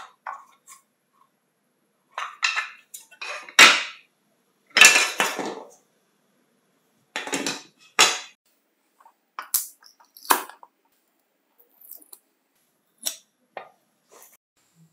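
Hard parts of a power tool clinking and knocking as they are handled, in a string of separate knocks with a few longer scrapes of about half a second to a second.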